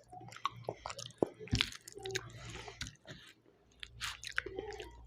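Close-miked chewing and biting of food: a string of irregular wet mouth clicks, smacks and small crunches.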